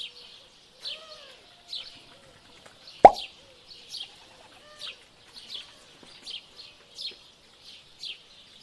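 Small birds chirping in quick, high, repeated chirps, with a few lower calls among them. A single sharp plop about three seconds in.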